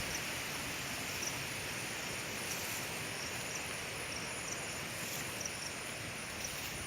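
Outdoor nature ambience: a steady hiss with a thin, continuous high tone and small, high chirps scattered through it.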